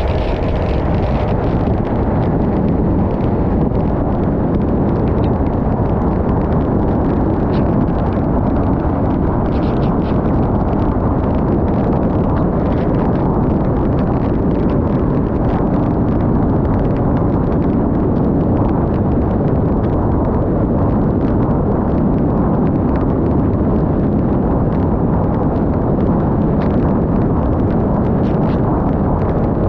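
Steady, loud wind rumble on a GoPro's microphone while riding a Yamaha XMAX 300 scooter at speed.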